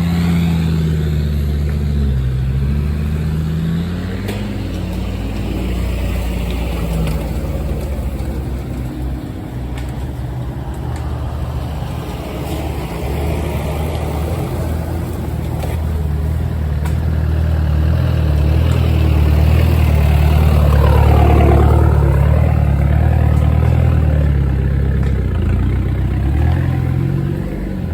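4x4 engine running at low speed as it crawls along a rough off-road track, its note shifting up and down and getting louder past the middle.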